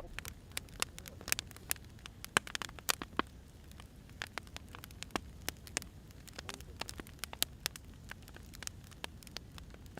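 Burning firewood crackling: irregular sharp pops and snaps, some louder than others, over a steady low rumble of the fire.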